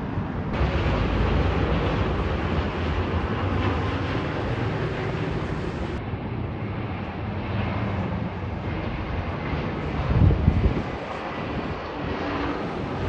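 Jet airliner arriving to land, its engine noise a steady rushing sound. A brief louder low rumble comes about ten seconds in.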